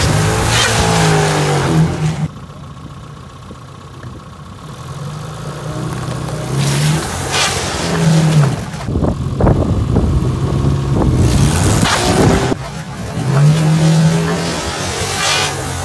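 Car engine running and revving in repeated swells as the car rolls over a board, with a short cluster of cracks and snaps about nine seconds in.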